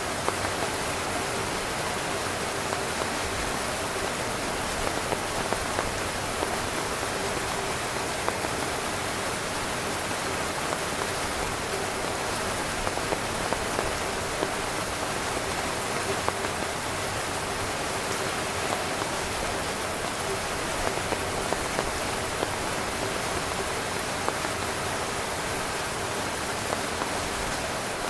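Heavy rain drumming steadily on a tent's fabric, a dense hiss with many small sharp drop ticks throughout.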